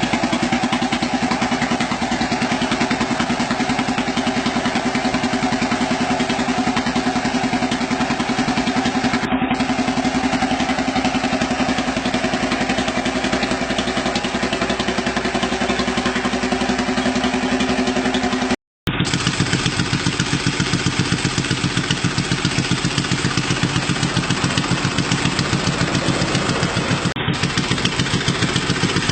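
A six-stroke engine prototype running steadily at idle with an even, fast firing pulse. The sound cuts out briefly about two-thirds of the way through, then the engine runs on with a slightly different tone.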